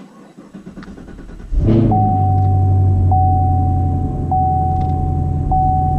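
Cold start of a 2016 Camaro SS's 6.2-litre V8 through its factory dual-mode (NPP) exhaust, exhaust-flap fuse in, in sport mode: the engine fires about a second and a half in and runs at a steady, loud idle.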